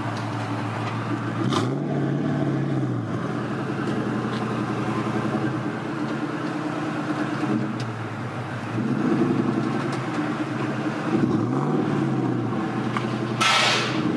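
Car engine idling, revved up and back down twice, each rev lasting about a second and a half. There is a short hiss near the end.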